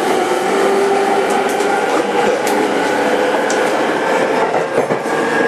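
Interior running sound of a JR 205-5000 series commuter train's VVVF-controlled motor car under way. Steady rail and wheel noise with a faint held motor whine, and a few scattered clicks from the track.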